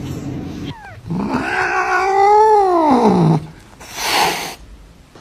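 Domestic cat yowling: one long drawn-out call that rises and then falls in pitch, followed about half a second later by a short burst of noise.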